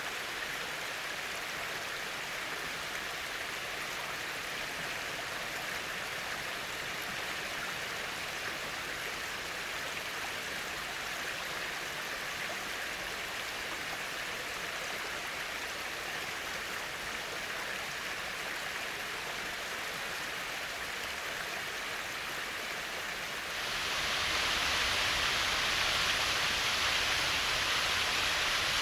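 Small waterfall spilling over a rock ledge: a steady rush of falling water. Near the end the sound abruptly becomes louder and brighter.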